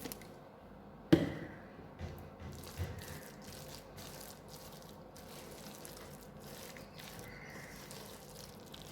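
Kitchen handling sounds while mayonnaise is added to the chicken filling: a sharp click about a second in, then a few faint soft knocks.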